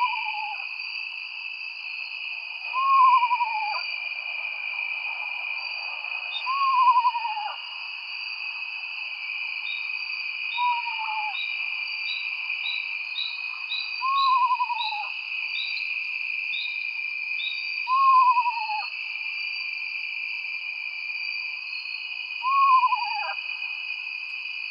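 An owl calling: one short falling hoot repeated about every three to four seconds, seven times. Behind it runs a steady high-pitched ringing, with a quick run of faint high chirps that speeds up in the middle.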